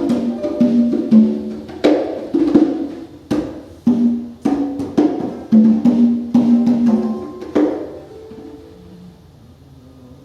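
Free-improvised live music: congas and plucked strings in sharp, irregular strikes and short notes, thinning out to quiet playing after about eight seconds.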